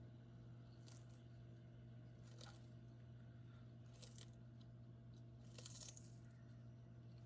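A tortoise biting and tearing off mouthfuls of plant food: faint crunching bites, about one every second and a half, over a steady low hum.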